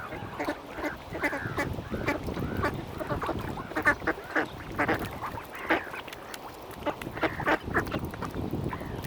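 A crowd of mallard ducks quacking, many short calls overlapping one another.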